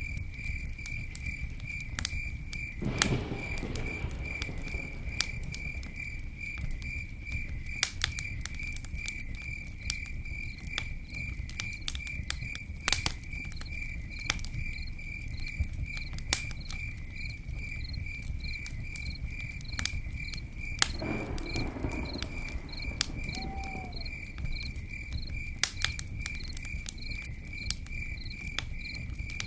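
Campfire burning with a low steady rumble and irregular crackles and pops, a few of them louder. An insect chirps in a fast, even pulse throughout.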